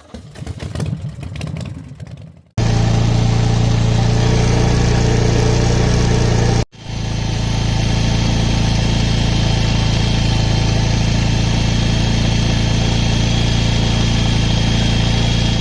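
Motorcycle engine running steadily. It starts abruptly about two and a half seconds in, after a quieter, changing sound, and breaks off for a moment near seven seconds before carrying on unchanged.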